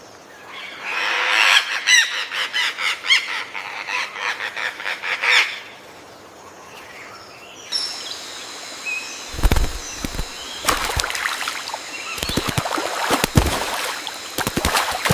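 Bird calling in a rapid series of harsh, honking calls for several seconds; then a steady high buzz with scattered low thumps.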